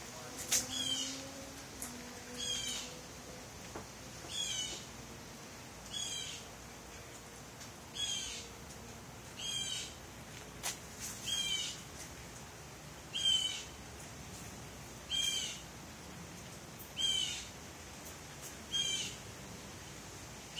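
A bird repeating a short, high-pitched call that falls in pitch, about once every two seconds, eleven times in an even rhythm.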